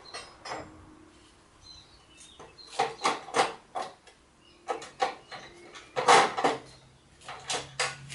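Metal tools and small gearbox parts clinking and knocking as they are handled on a workbench, in irregular clusters of sharp clicks, the loudest a little after six seconds in.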